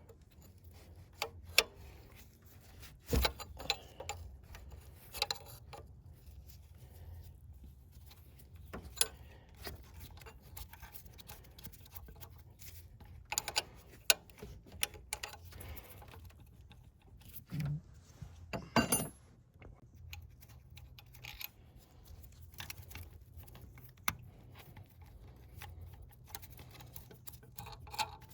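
Scattered sharp clicks, clinks and knocks of hand tools against metal parts during engine work, irregular and uneven in loudness, over a faint low steady hum.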